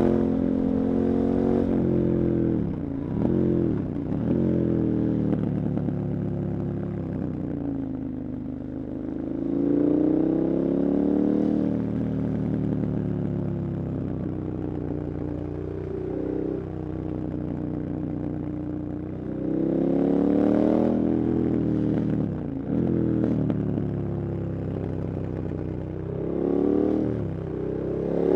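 KTM 1290 Super Adventure's V-twin engine accelerating and easing off over and over, the pitch climbing as it pulls and falling back between pulls. There are quick dips in pitch around three and four seconds in, a long, calmer stretch through the middle, and strong pulls again near the end.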